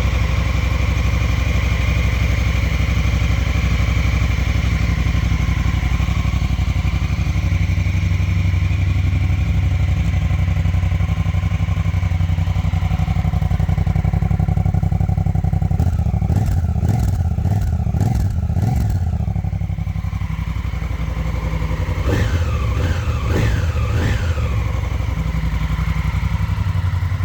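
Honda Africa Twin 1000 DCT's parallel-twin engine idling steadily, then revved in two quick series of throttle blips, each rising and falling fast, with a short settle back to idle between them.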